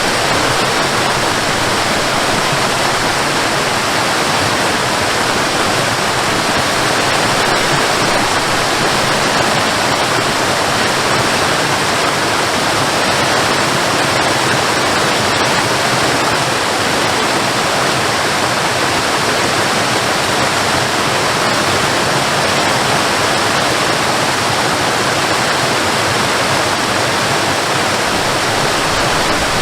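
Waterfall rushing in a steady, dense roar of falling water.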